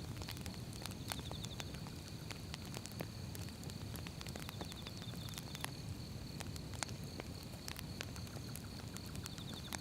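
Burning firewood crackling, with many sharp, irregular pops over a low, steady rumble of flames.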